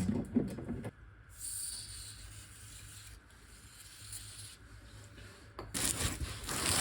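Rubbing and scraping as a car exhaust section is worked onto its rubber hangers. It is busy in the first second, quieter through the middle, and picks up again near the end.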